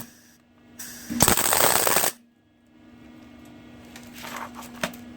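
Arc welder laying a single tack weld for about a second, an even loud crackle that starts and cuts off sharply. A faint steady hum runs underneath.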